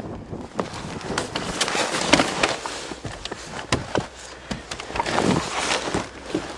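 Irregular rustling, clicks and knocks as someone handles things inside an old car before starting it. No engine is running.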